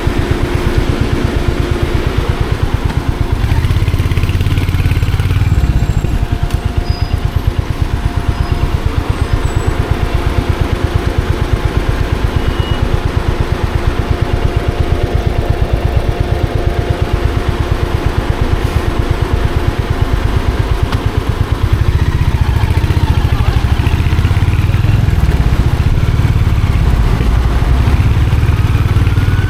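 Royal Enfield Hunter 350's single-cylinder engine and exhaust running while riding in traffic, a steady low thudding beat. The engine note swells twice, about four seconds in and again from about twenty-two seconds on, as the bike is opened up.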